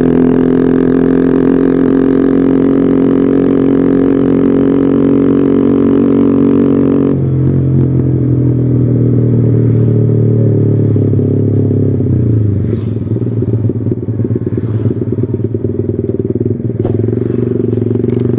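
Yamaha R15 V3's 155 cc single-cylinder engine running through an Arrow aftermarket exhaust, holding a steady note. About seven seconds in the note drops suddenly and falls again near twelve seconds, after which it sounds rougher and more uneven.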